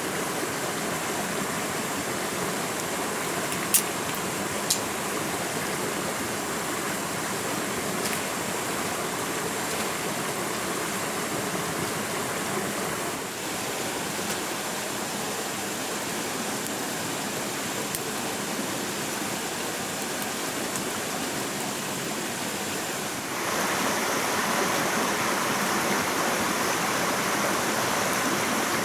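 Steady rushing of flowing water, like a forest stream, with two sharp clicks about four seconds in. The water gets louder and brighter near the end.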